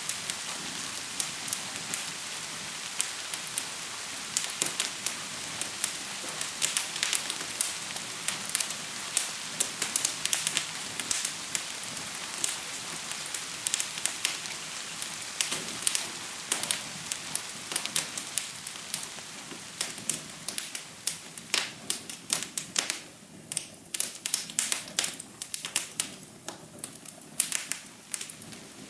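A wood fire crackling and popping with many sharp snaps over the steady hiss of falling rain. About three quarters of the way in the rain hiss thins, leaving the fire's crackles more exposed.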